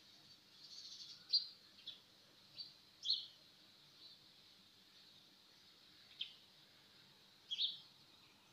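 Birds chirping faintly: a handful of short, high chirps at irregular intervals, with a brief twitter about a second in.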